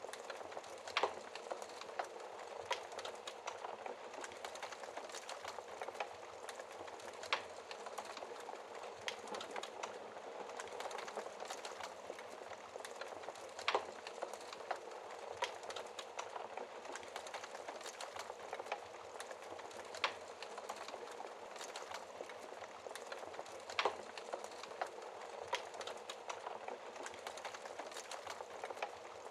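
Fire crackling in a fireplace: a steady hiss of flames with frequent small crackles and a handful of louder pops a few seconds apart.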